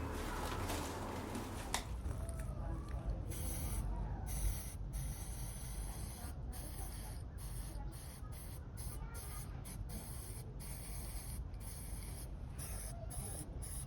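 Rustling and handling noise for the first couple of seconds, then a low, steady background rumble with faint scattered rubbing sounds.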